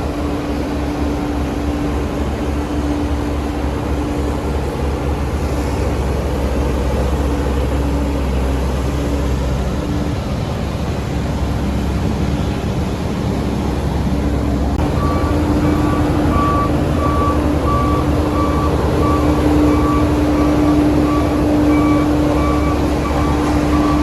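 Heavy construction machinery's diesel engine running steadily under load. About two-thirds of the way through, a reversing alarm starts beeping, roughly once a second.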